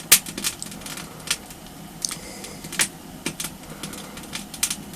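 Small dry firewood just lit in a stove-fireplace, crackling with irregular sharp pops, the loudest just after the start.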